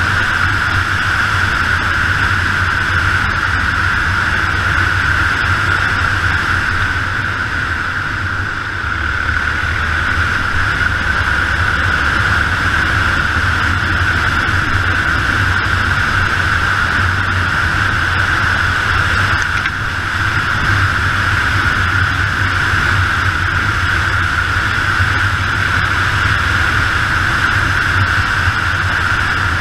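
Yamaha XT 600 single-cylinder four-stroke motorcycle engine running at a steady cruising pace, with heavy wind rushing over the microphone. The level dips slightly twice.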